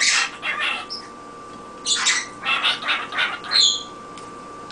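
Cockatiel chattering: two runs of raspy, speech-like mumbling, with a short high chirp about a second in and another near the end.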